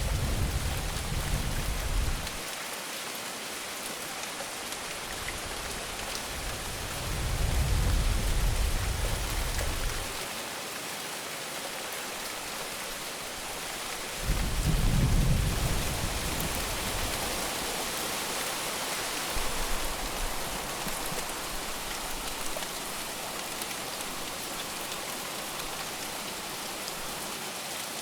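Steady heavy rain falling, broken by low thunder rumbles of two to three seconds each: one at the start, one about seven seconds in and one about fourteen seconds in, with a fainter rumble around twenty seconds.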